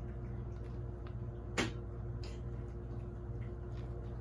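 A steady low hum with one sharp click about a second and a half in and a few faint ticks.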